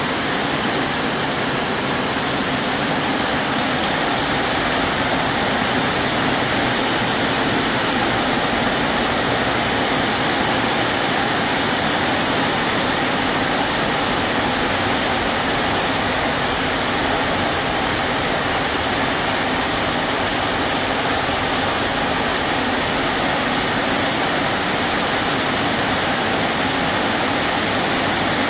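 Heavy rainstorm: a downpour falling steadily, a continuous even rush of noise with no let-up.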